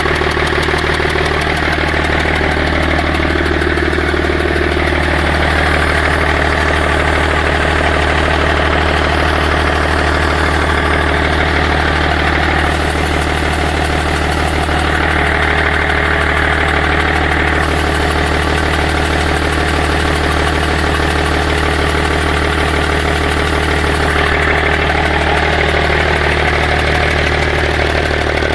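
BMW E39 530d's three-litre M57 straight-six diesel idling steadily with its intake manifold removed.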